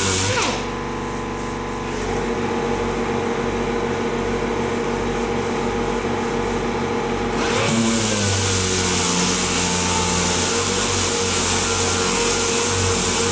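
A motor running steadily. Its hiss drops away shortly after the start and comes back about seven seconds later.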